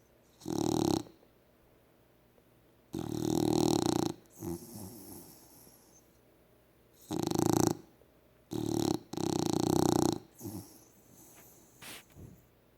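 A dog snoring: five or six loud snores at uneven intervals, each lasting from half a second to about a second, with shorter, quieter breaths between them.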